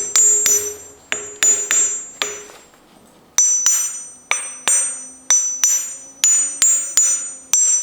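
Small hand-forged wrought-iron anvil with a steeled face tapped repeatedly with a hammer, each strike ringing with a high, clear tone that dies away quickly: a ring test of the forge-welded body, which has a bit of a ring but less than his other anvils. The taps come in two quick runs with a short pause about two seconds in.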